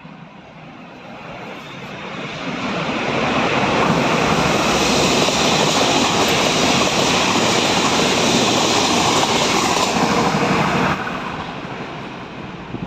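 A train passing at speed: a loud rushing noise swells over a few seconds, holds steady, then falls away sharply near the end as the train clears.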